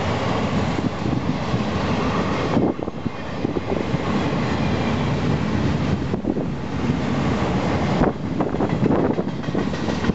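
Double-stack intermodal freight train rolling past: a steady rumble and clatter of the container-loaded well cars' wheels on the rails, dipping briefly about three times.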